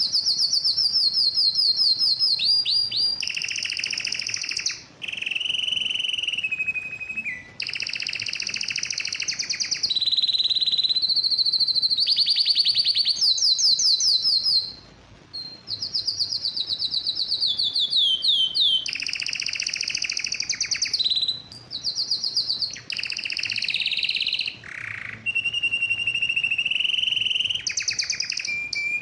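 Male domestic canary singing an excited mating song: long runs of rapid trills and repeated notes with falling sweeps, broken by a few short pauses.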